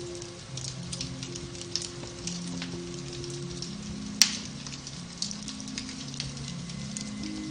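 Beech-wood fire in a fireplace crackling with many small snaps and one loud pop a little past halfway. Soft, slow piano music plays underneath.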